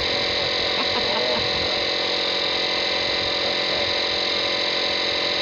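An engine running steadily at idle: an even droning hum with a high whine over it that does not change in pitch or level.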